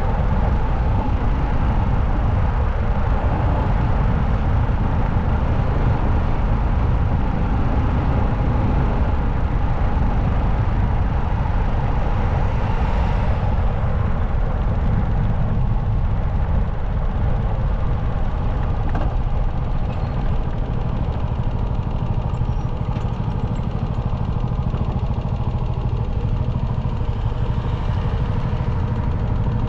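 Motorcycle being ridden at speed: a steady engine drone under heavy, constant wind and road noise.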